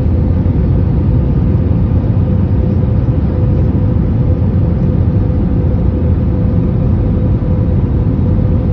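Airliner cabin noise on approach, heard from a passenger seat: a steady low rumble of engines and airflow with a constant hum, with the landing gear and flaps extended.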